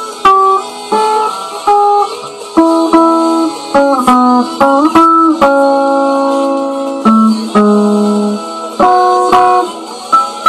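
Music: a guitar playing an instrumental passage of struck chords and single notes, with one chord left ringing for a couple of seconds midway, and no singing.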